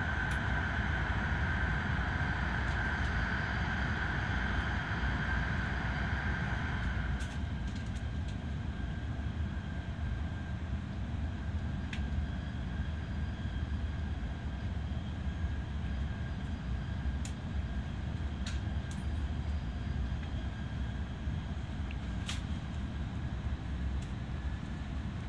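Interior running noise of a Hokkaido Shinkansen Hayabusa train approaching a station stop: a steady low rumble with a high steady whine that fades out about seven seconds in, leaving quieter rolling noise and a few faint clicks.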